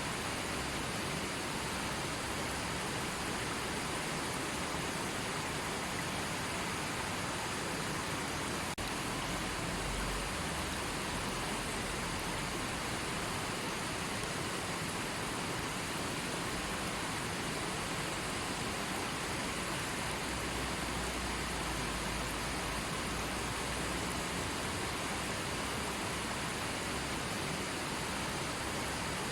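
River water rushing and burbling steadily, a continuous even hiss.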